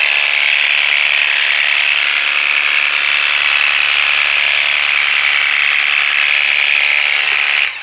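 Worx WG633 Hydroshot cordless pressure washer running steadily, its pump whining as it sprays, then cutting off suddenly near the end as the trigger is released.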